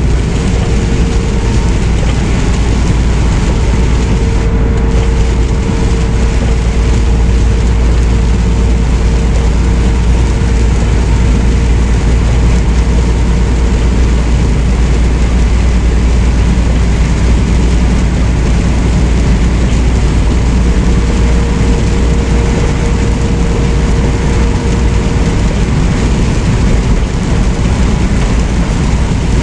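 Semi truck driving down the highway, heard from inside the cab: a steady, loud engine drone and road noise with a faint steady hum.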